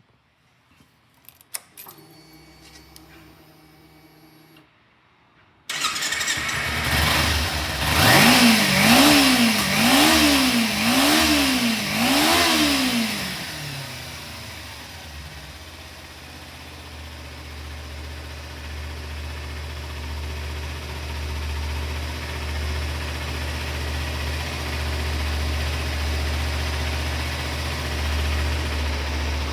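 A 2014 Kawasaki Ninja 250's 249 cc parallel-twin engine starting. A few faint clicks and a short whir come first, then the engine catches suddenly. It is blipped four times, rising and falling in pitch, then settles into a steady idle.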